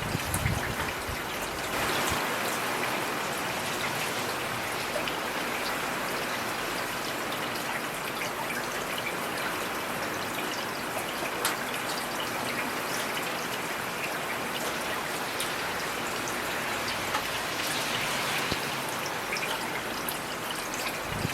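Heavy rain falling steadily, with individual drops ticking close by. It swells briefly a couple of times.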